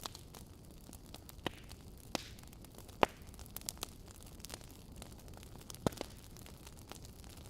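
Wood fire in a fireplace crackling: a steady low hiss of burning logs with scattered sharp pops and snaps, the loudest about three seconds in and another near six seconds.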